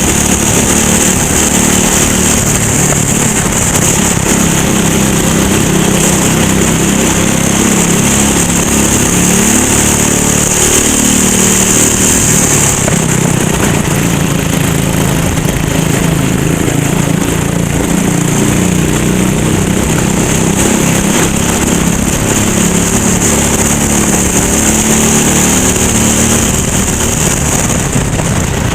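Go-kart engine running at race pace, its pitch rising and falling again and again as it revs up and drops back, with a steady high hiss over it.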